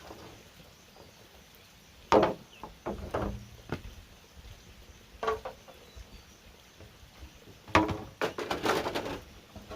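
Bamboo knocking and clattering as it is handled and struck: a few single wooden knocks, then a quick cluster of knocks near the end.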